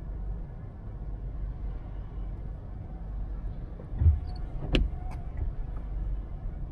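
Car driving, with a steady low rumble of road and engine noise. About four seconds in there is a low thud, followed within a second by two or three sharp clicks.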